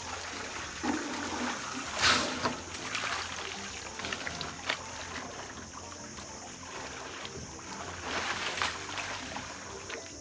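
Elephants drinking at a waterhole: water trickling and splashing unevenly, with louder splashes about two seconds in and again near the end.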